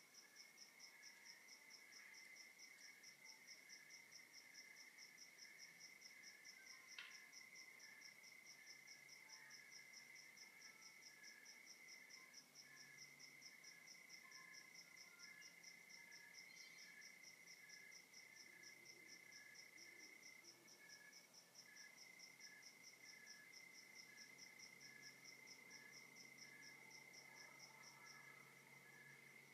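Faint chorus of night insects, crickets: one a steady unbroken trill, others rapid, evenly pulsed chirping. A single short click about seven seconds in.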